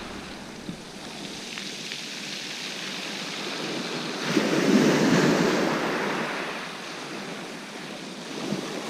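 Sea waves washing onto the beach, one wave surging louder about four seconds in, with wind on the microphone.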